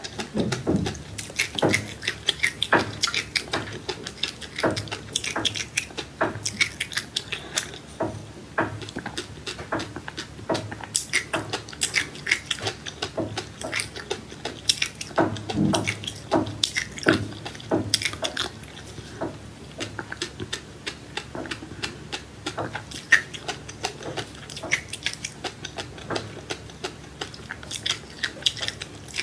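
Close-up chewing and crunching of seeds, a dense run of quick, irregular crackling clicks.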